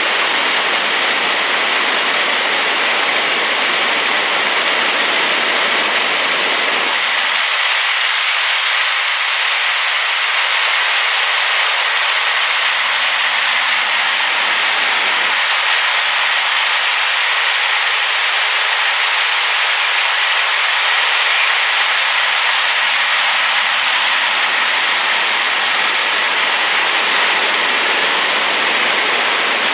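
Rain-swollen waterfall, a loud, steady rush of falling water with no breaks. The low rumble under the rush drops away from about seven seconds in until near the end.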